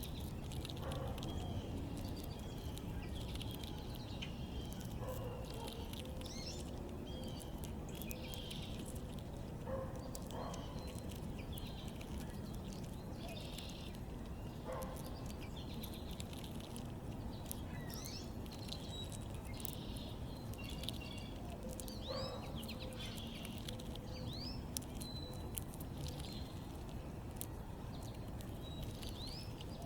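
Wild backyard birds chirping and calling: short high chirps and a few quick rising notes, scattered irregularly, over a steady low background rumble.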